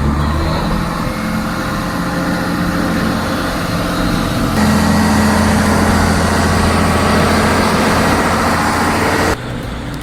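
Heavy vehicle's diesel engine running steadily under load, loud, with an abrupt change in the sound about halfway through and a sudden stop near the end.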